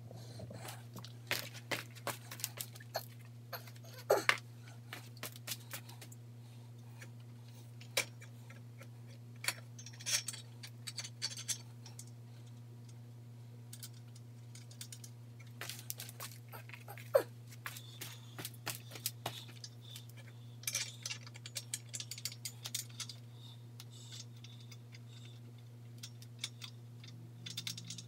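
Scattered clicks, taps and brief jangling of metal hardware and parts being handled during assembly of a miter saw stand, over a steady low hum.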